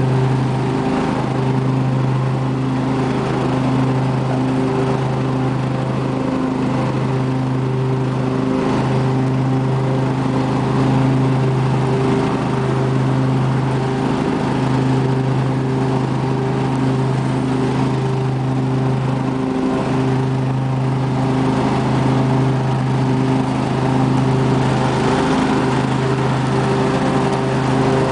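2005 Husqvarna lawn tractor's 24 hp Briggs & Stratton V-twin engine running at a steady speed, with a brief small dip in its note every few seconds.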